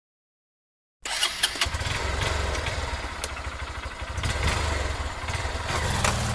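Motorcycle engine running, a steady low rumble with a few sharp clicks, starting abruptly about a second in after silence.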